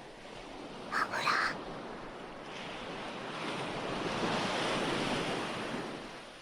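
Recorded ocean surf: a wave swells in and washes out over the last few seconds, over a steady hiss of sea. About a second in there is a brief, sharper sound.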